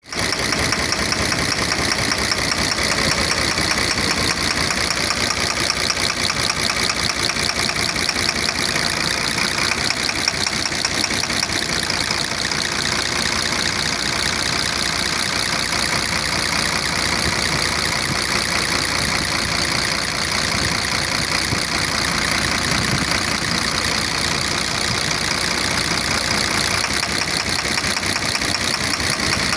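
Cummins 6.7-litre inline-six turbo-diesel idling steadily with a rapid, regular knock, which the owner puts down to a knocking fuel injector.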